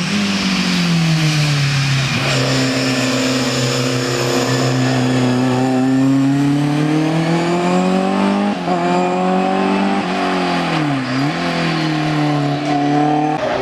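Hill-climb race car engine running hard at high revs, its pitch holding and gliding with sudden shifts as it changes gear. Near the end the revs dip sharply and then climb again.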